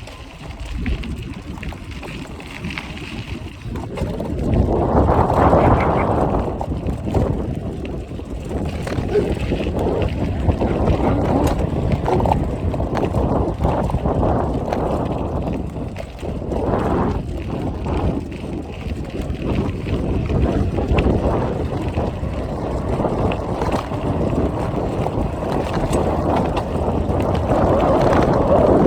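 Wind buffeting the microphone on a moving bicycle, with rolling rumble; loud, uneven rushing noise that swells and eases every few seconds.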